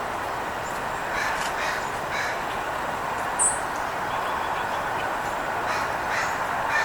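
Small birds chirping in short high notes, with one sharp high note near the middle, over a steady background hum.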